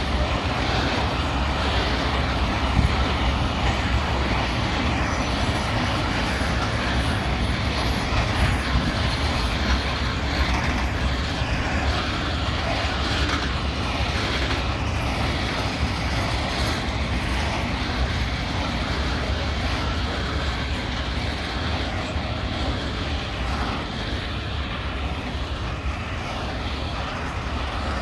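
Train passing through the station: a steady rumble and clatter of wheels on rails, easing slightly near the end.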